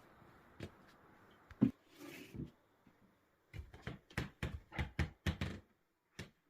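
A run of sharp thumps, about eight in quick succession a little past halfway, with a few scattered knocks before it and one more near the end.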